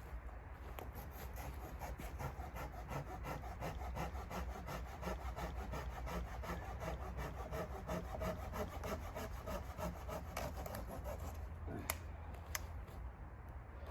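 Hand saw cutting through wood with fast, even rasping strokes that stop near the end, followed by a couple of sharp clicks.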